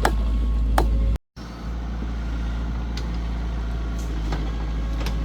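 A heavy vehicle engine running steadily with a low drone, with a few sharp knocks in the first second. The sound cuts out briefly a little over a second in, then the steady engine drone resumes.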